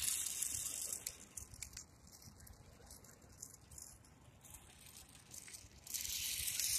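Blomiky 1/43-scale 4WD micro RC short course truck driven in short throttle bursts: a faint, hissy rattle from its tiny electric motor, gears and tyres on the ground. One burst lasts about the first second and another starts about a second before the end, with near quiet between them.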